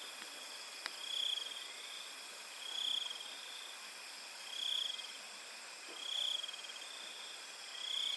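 Insects chirring: a steady high buzz, with a louder short trilling call repeating about every second and a half to two seconds, five times.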